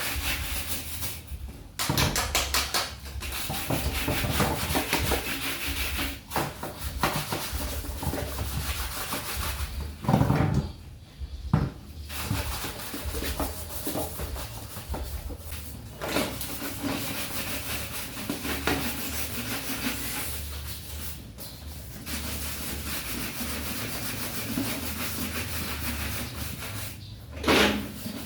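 Scrubbing and rubbing on washing-machine parts during a deep clean, in quick repeated strokes, broken by several knocks and clatters, the loudest near the end.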